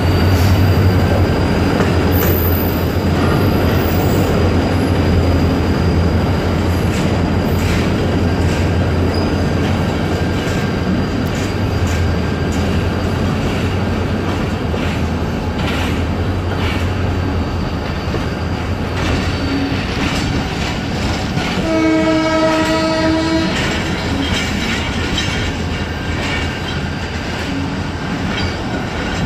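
Passenger train running around a sharp curve, wheels clicking over the rail joints, with the low drone of a diesel locomotive engine that fades away after the first dozen seconds. Around two-thirds of the way through, a train horn blows once for about a second and a half.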